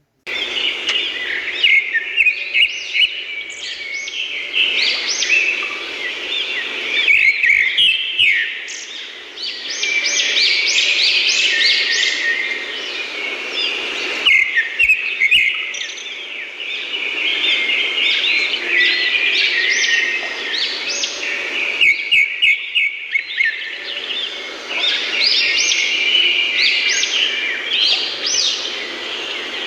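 Many birds chirping and twittering together in a dense chorus of quick, high overlapping chirps, broken by a few short pauses.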